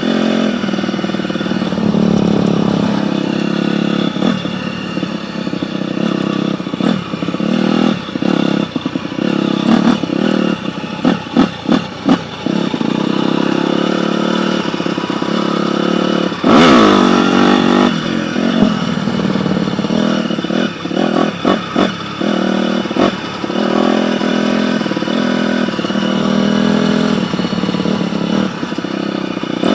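Dirt bike engine running and revving, its pitch rising and falling with the throttle and dropping out briefly several times in quick succession. A loud rush comes about halfway through.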